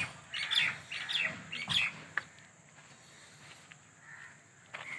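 Small birds chirping in a quick run of short calls for about the first two seconds, then dying down. There is one sharp click a little after two seconds in.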